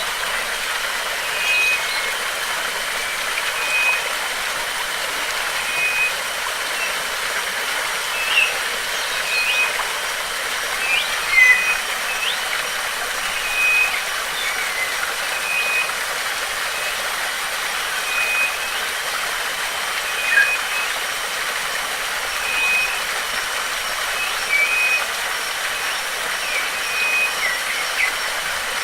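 Steady rush of flowing water, with birds calling over it: a short flat note repeated about every two seconds, and scattered quick chirps.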